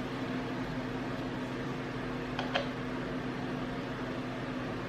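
A steady mechanical hum from a running appliance, with two faint clicks about two and a half seconds in.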